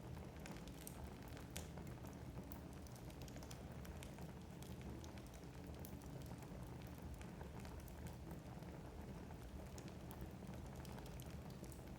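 Wood fire burning in a fireplace: a faint, steady low rumble with scattered small crackles and pops from the burning logs.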